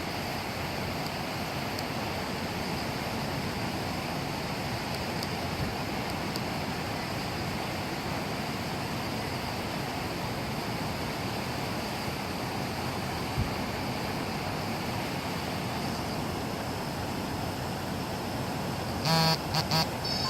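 Steady heavy typhoon rain and wind. Near the end a vehicle horn gives three short blasts.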